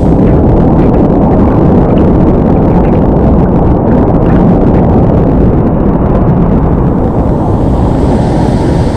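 A waterfall rushing: a loud, steady noise heavy in the low end, with no breaks.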